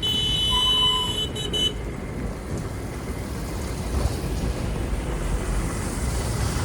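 A vehicle horn sounds briefly at the start, a high steady tone that stops after about a second and a half, followed by the steady rumble of vehicle and road noise.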